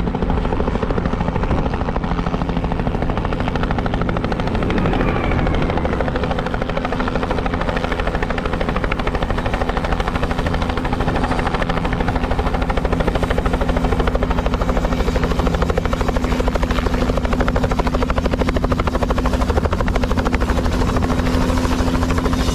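Helicopter in flight, heard from inside the cabin: a loud, steady engine and rotor noise with a fast, even rotor beat and a constant low drone.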